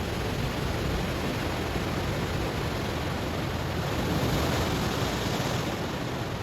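Ocean waves washing onto a stony shore: a steady rush of surf that swells about four seconds in and eases off near the end.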